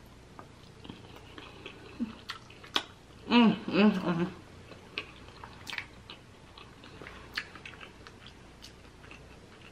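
A person chewing soft food close to the microphone, with wet smacks and small mouth clicks scattered through. About three and a half seconds in comes a short hummed voice sound, the loudest moment.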